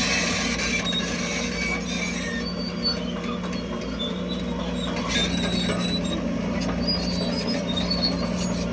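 Crawler bulldozer's diesel engine running steadily, with short high squeaks and faint clanks from its moving tracks.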